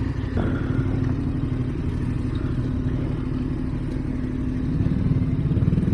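Motorcycle engine running at low speed through a rocky creek crossing, with the revs swelling up and down a few times in the second half.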